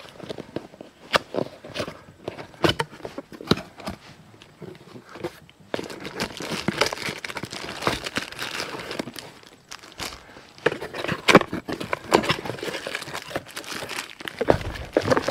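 Packaging being handled as a cardboard box is opened: scattered taps and scrapes at first, then from about six seconds in a denser crinkling of plastic bags and rustling cardboard as the contents are lifted out.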